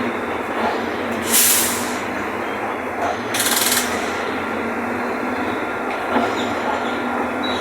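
Mercedes-Benz OF-1519 BlueTec 5 bus's four-cylinder diesel engine running steadily under way, heard inside the cabin with body and road rumble. Two short bursts of high hissing come through, about one and a half seconds in and again about three and a half seconds in.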